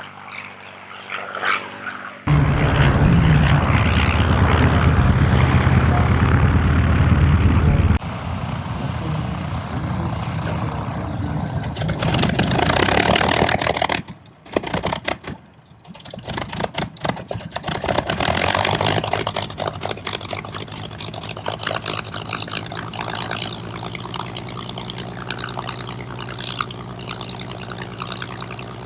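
Propeller aircraft engines running, heard in a string of clips that cut abruptly from one to the next several times. Some stretches carry a steady engine hum and others a hissing rush.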